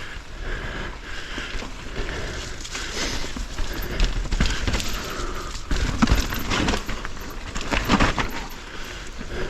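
Mountain bike riding a rough trail: tyre noise over dirt and roots, with repeated rattles and knocks from the bike over bumps, the hardest hits about six and eight seconds in.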